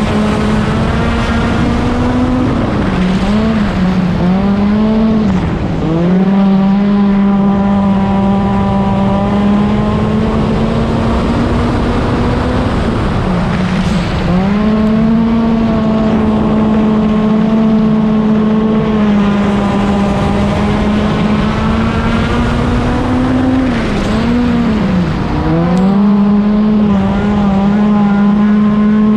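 Stock car engine running hard at a steady high pitch. The pitch dips and climbs back twice in quick succession about three seconds in, and again near the end, as the throttle is lifted and reapplied.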